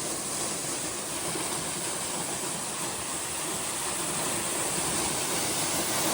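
Steady rushing noise of a waterfall, falling water with no breaks or distinct events.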